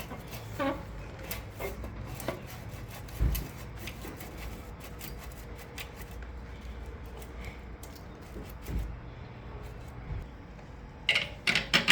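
Hand work on a motorcycle slip-on exhaust and its clamp: light rubbing and scattered small metal clicks, a couple of dull knocks, and a quick run of sharp clinks near the end.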